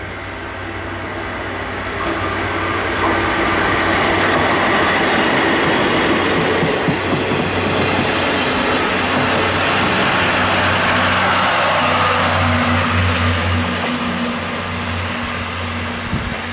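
DE10 diesel-hydraulic locomotive and its train of passenger coaches passing close by, a steady rumble and clatter of wheels on rail. It swells over the first few seconds, stays loud as the coaches roll past, and eases off near the end as the train moves away.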